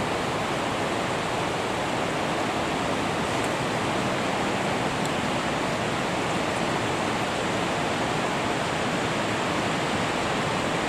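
River Isla's fast-flowing water rushing steadily, an even, unbroken noise of running water.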